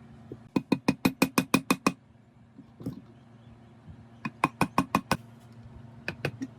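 Two quick runs of sharp metallic knocks, about seven a second, each knock ringing briefly. The first run has about ten knocks and the second about six, with a few single knocks near the end.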